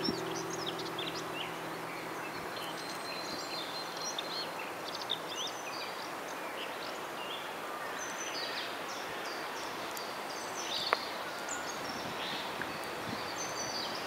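Several birds chirping and singing in short, high calls over steady background noise. A strummed acoustic guitar chord dies away in the first second or so.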